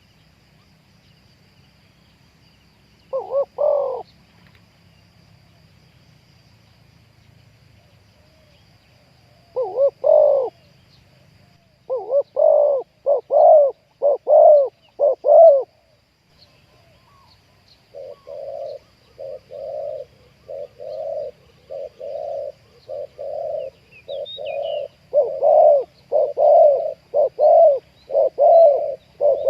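Spotted doves cooing. There are a few separate coo phrases in the first half. From about halfway through comes a fast, even run of short coos, roughly one or two a second.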